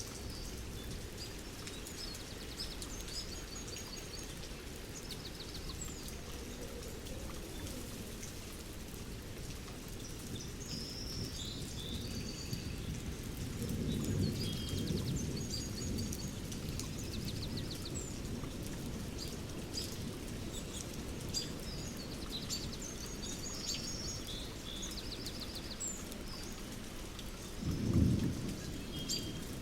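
Steady rain with birds chirping throughout, a low roll of thunder about halfway through, and a louder thunder rumble near the end.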